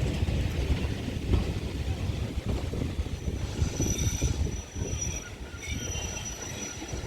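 Steam train's wheels squealing against the rails: a thin, steady, high squeal that sets in about three seconds in, over a heavy low rumble.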